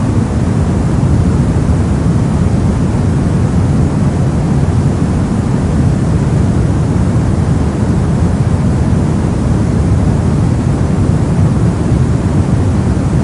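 Brown noise: a steady, unchanging random hiss with its weight in the low end, a deep, warm rumble.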